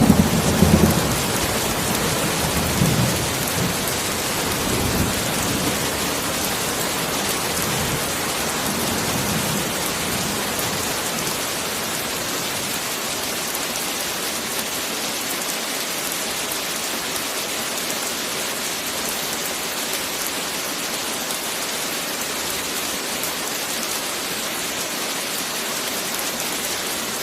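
Heavy rain falling steadily in an even hiss. The tail of a thunderclap rolls away in the first second or so, and fainter rumbles of thunder swell a few times over the next ten seconds before only the rain remains.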